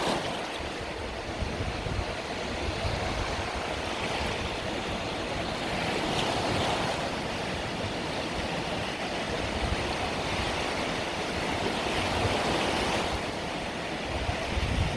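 Small Mediterranean waves washing onto the beach, a steady surf hiss that swells and eases every few seconds.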